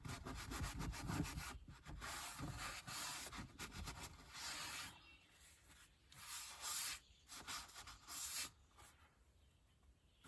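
Paper towel wiping a door panel insert clean after a spray of cleaner, in a series of uneven rubbing strokes that die away near the end.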